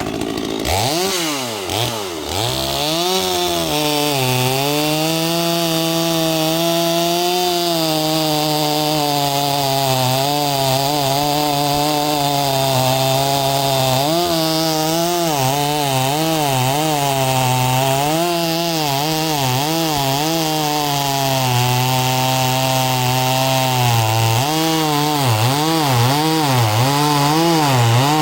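Two-stroke Stihl MS250-clone chainsaw revving up about a second in, then cutting a log under load. The engine pitch wavers as it bogs in the cut and recovers, with deeper dips near the end.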